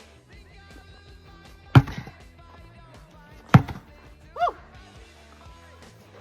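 A 10-pound sledgehammer striking a large tire twice, about two seconds apart, each hit sharp and loud. Each strike is followed a moment later by a short voiced grunt or exclamation that rises and falls in pitch.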